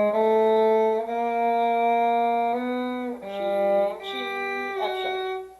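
Violin playing a slow passage of held notes, two notes sounding together and changing every second or so, stopping just before the end.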